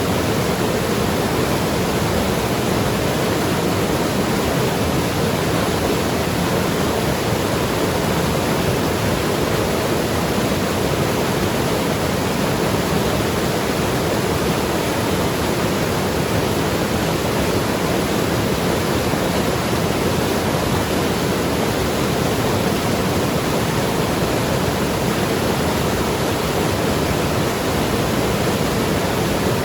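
Mountain river rushing and tumbling over rocks, a steady full-bodied water noise.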